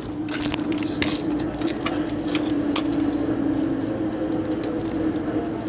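R142A subway car's interior sound: a steady hum with scattered clicks and rattles, and a faint tone that slowly shifts in pitch in the second half.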